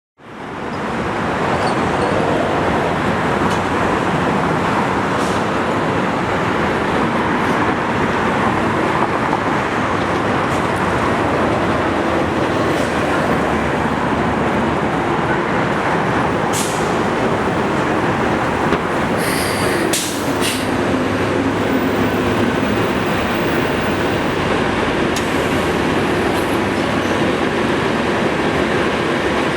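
A Metro Rail train running, with steady, dense rail noise and a few sharp clicks near the middle.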